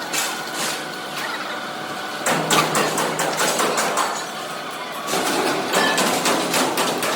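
Workshop noise: irregular metallic knocks and clatter over machinery running, with a steady low hum coming in about two seconds in.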